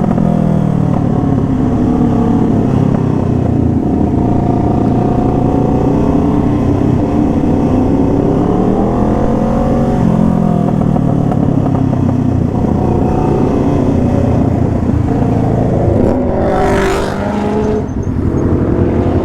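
Kawasaki ZX-6R's inline-four engine under way, its pitch rising and falling with the throttle and gear changes. About three-quarters of the way through there is a brief rising hiss.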